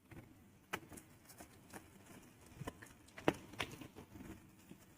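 Cardboard box of a portable juicer being opened and handled: scattered light taps, clicks and scrapes, the sharpest a little past the middle.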